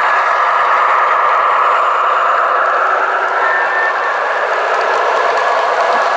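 Model train running on the layout track: a steady rolling rumble of wheels and motor with a faint steady whine through it.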